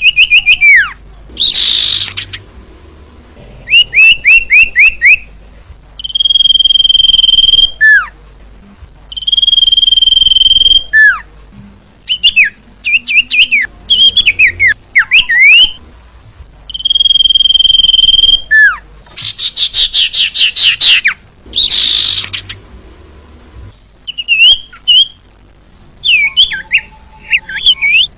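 Iora (cipoh) singing loudly: long level whistled notes about a second each, alternating with fast runs of rising chirps and a few harsh, rasping notes.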